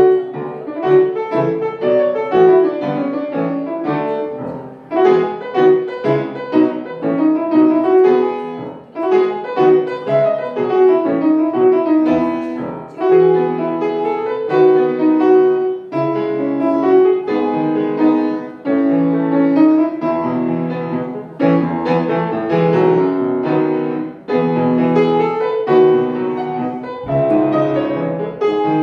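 Solo piano music: a continuous piece with many struck notes and chords in the middle register.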